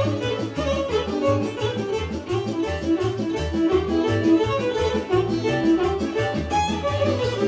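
Instrumental Serbian kolo medley: a violin leading a folk band over a steady, driving bass beat.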